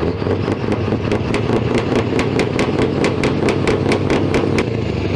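MAN truck's diesel engine idling with a steady low rumble, overlaid by a rapid, even ticking about five or six times a second that stops near the end.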